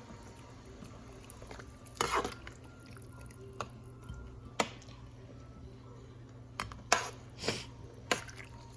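Kitchen handling noises: scattered sharp knocks and clinks, about eight of them, with a cluster near the end, over a steady low hum.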